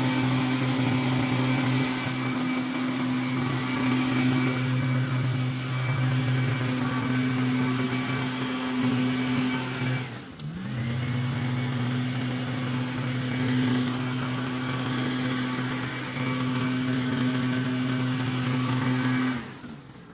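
Engine running at a steady speed. About halfway through its speed dips sharply and climbs back within about a second, and near the end the engine sound drops away.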